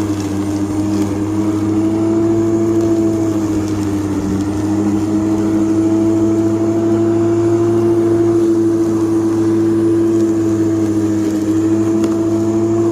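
Electric lawn mower running with a steady motor hum, its pitch sagging slightly near the start and again about four seconds in.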